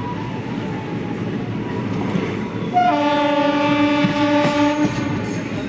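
Moving train rumbling steadily on the track. About three seconds in, a train horn sounds one steady blast lasting about two seconds.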